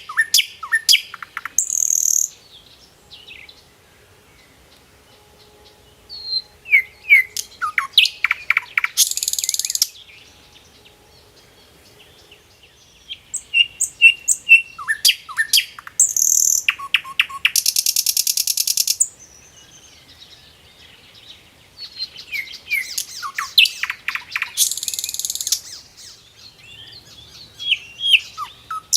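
A songbird singing in repeated bouts of quick chirps and sweeping notes, each bout ending in a fast buzzy trill, with pauses of a few seconds between bouts.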